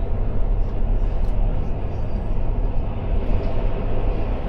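Passenger train running along the track, heard from inside the carriage: a steady low rumble and rolling noise.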